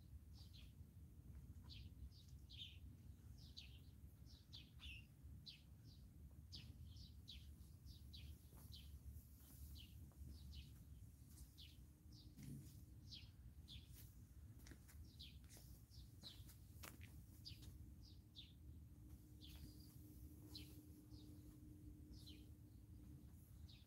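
Faint chirping of small birds: many short, quickly falling chirps in irregular succession, over a steady low rumble.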